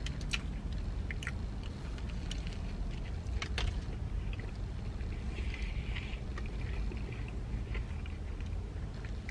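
A man chewing a mouthful of sandwich with tortilla-chip-coated chicken and crusty tiger bread: scattered soft crunches and mouth clicks over a steady low rumble inside a van.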